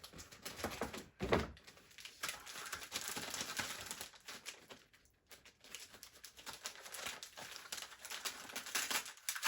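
Wrapping paper being torn and crumpled as a present is unwrapped: irregular crinkling and rustling in fits and starts, with brief pauses.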